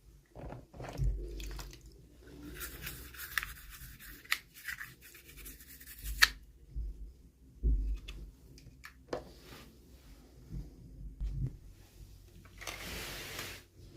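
Hands handling and opening toy packaging: rustling, rubbing and clicking of plastic and cardboard, with a sharp click about halfway through and a longer scraping rustle near the end.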